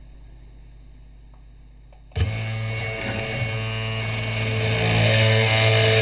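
A low steady hum, then about two seconds in a small electric spindle motor of a CNC 3018 router starts and runs with a steady buzzing whine that grows louder.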